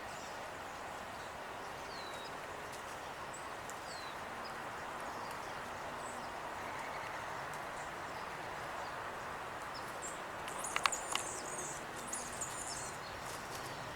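Small songbirds chirping briefly over a steady outdoor background hiss: a few faint high chirps in the first few seconds, then a short flurry of high chirps and a couple of sharp clicks about eleven seconds in.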